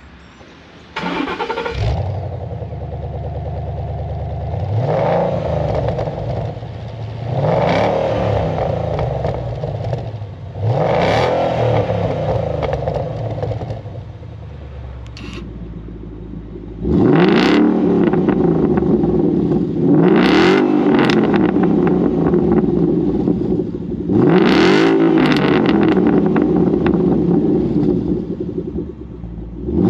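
Ford Mustang 5.0 V8 with an Ulter-Sport active exhaust, starting about a second in and idling between short throttle blips. About halfway through, the idle steps up to a louder level, and the blips after that are louder too.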